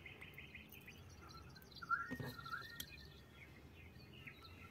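Faint background bird chirping: a trill fading out at the start, then a few short chirps about two seconds in.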